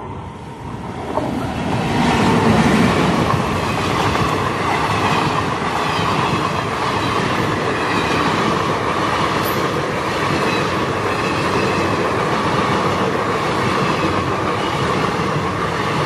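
Indian Railways passenger train passing close by at speed: the noise swells over the first few seconds as the locomotive goes past, then holds steady as the coaches' wheels run by on the rails.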